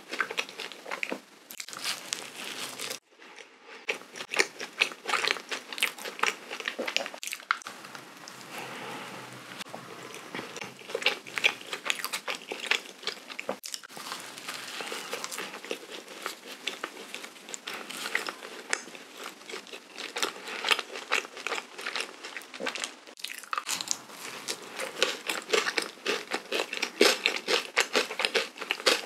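Close-miked eating of a soft, sugar-dusted cream-filled doughnut: bites and steady chewing with dense, fast clicky mouth sounds, pausing briefly about three seconds in.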